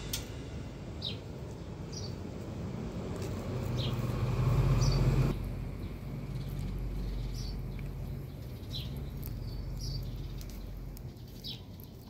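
Small birds chirping outdoors: short, high chirps about once a second, over a steady low background hum that swells briefly and then drops suddenly about five seconds in.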